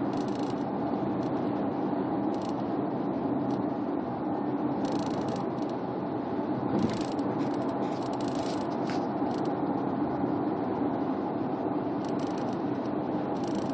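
Steady road noise inside a Subaru Forester's cabin, broken by irregular bursts of light rattling from the sunroof. The owner suspects the retracted sunroof wind deflector is vibrating with the body.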